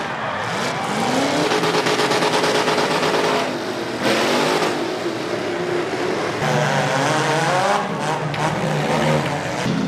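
Car engines revving over and over, their pitch rising and falling in overlapping sweeps, over a constant rushing noise like race-car audio.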